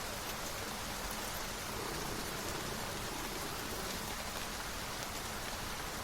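Steady rain falling: an even, constant hiss with faint scattered drop ticks.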